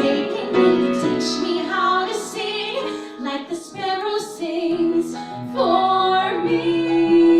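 Two women singing the last phrase of a folk-pop song in close harmony over acoustic accompaniment, settling into one long held chord near the end.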